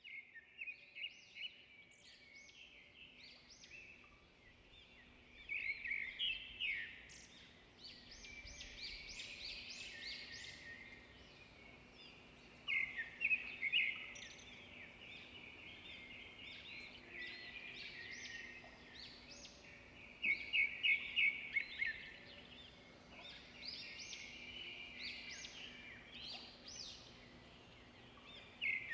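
Birds chirping and trilling, with louder runs of quick repeated notes every several seconds, over a faint steady hum.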